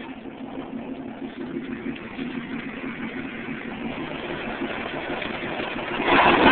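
Car engine with an aftermarket racing exhaust running at idle with a steady buzzing note, gradually getting louder, then becoming suddenly much louder about six seconds in.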